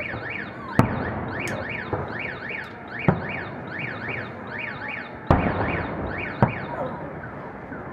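Fireworks bursting in four sharp bangs while a car alarm wails in a fast repeating up-and-down sweep that dies away near the end.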